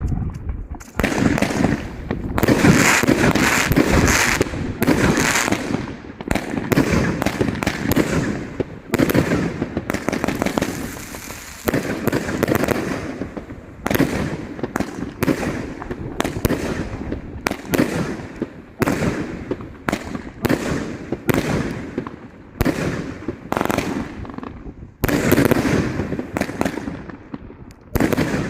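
Fireworks going off in a rapid, unbroken string of shots and bursts with crackling, decaying tails. The volleys are heaviest about a second in and again near the end.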